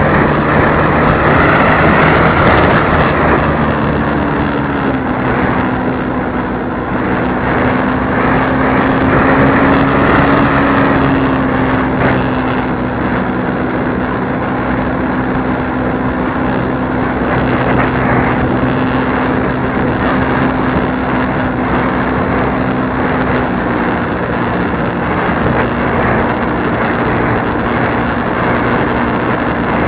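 Radio-controlled model airplane's engine running steadily in flight, a continuous drone over a dense hiss of rushing air, its pitch dipping slightly about five seconds in and again near the end as the throttle changes.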